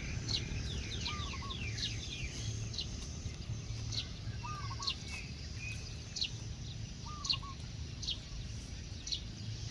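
Birds chirping: a sharp, falling high chirp repeats about once a second, with a quick flurry of chirps near the start, and a short three-note call comes three times. All of it sits over a steady low rumble.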